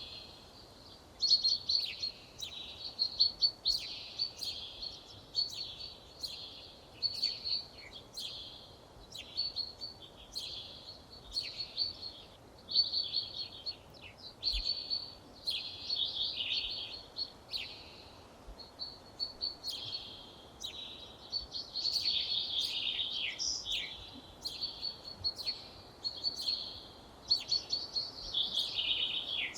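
Songbirds singing: a dense stream of short, high chirping phrases and trills following one another with hardly a pause, over a faint steady background hiss.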